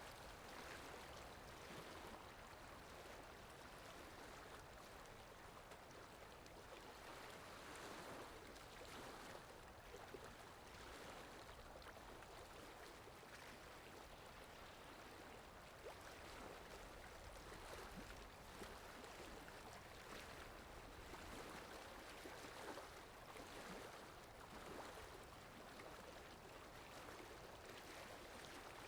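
Faint, steady rushing of flowing water from a water sound effect, swelling gently now and then.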